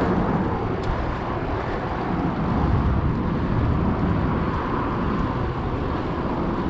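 Steady wind noise on a chest-mounted action camera's microphone as the bike rolls along, heaviest in the low end.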